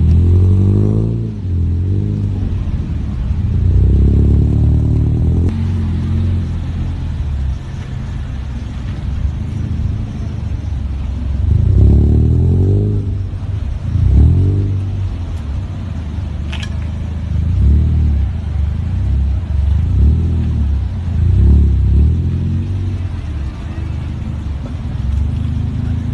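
A car engine revving up and dropping back several times, loud and low, with one short sharp click about two-thirds through.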